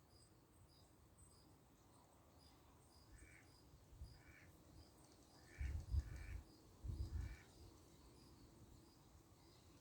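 Faint insect chirping, pulsing at about two a second, with a bird giving five short calls from about three seconds in. Two louder low rumbles come near the six- and seven-second marks.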